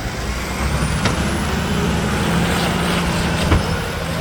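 Mack McNeilus front-loader garbage truck's diesel engine running steadily as it approaches, with a couple of short clicks, one about a second in and a sharper one near the end.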